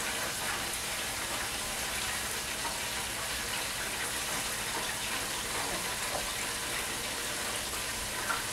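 Diced bell peppers and onions sizzling steadily as they sauté in a pot, with eggs boiling in a pot of water beside them.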